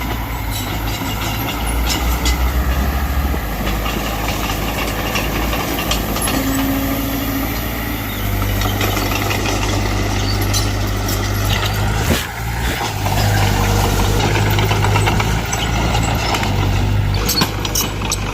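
Diesel engine of earthmoving machinery running steadily under load, with a brief dip in level about twelve seconds in and a run of rapid clicks near the end.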